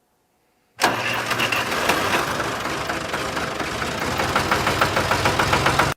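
Tractor engine running steadily with a rapid, even pulsing. It starts about a second in and cuts off abruptly at the end.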